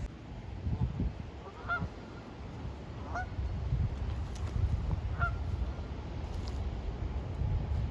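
Geese honking: a few short, separate honks about every second and a half to two seconds, over a steady low rumble.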